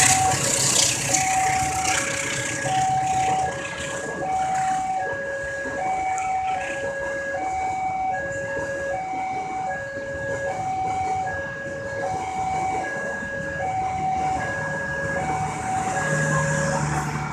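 Railway level-crossing warning alarm sounding an even, alternating high-low two-tone ding-dong, about a tone every 0.4 seconds. The rumble of a passing train fades over the first few seconds.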